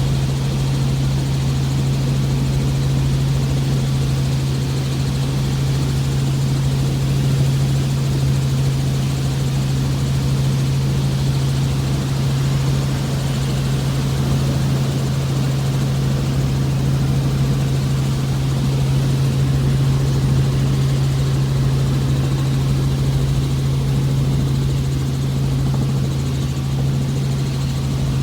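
Helicopter in flight: a loud, steady drone with a strong, unchanging low hum.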